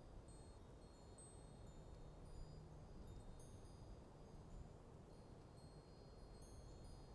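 Wind chimes tinkling faintly in a light breeze: scattered, overlapping high ringing notes over a low, steady rumble of wind.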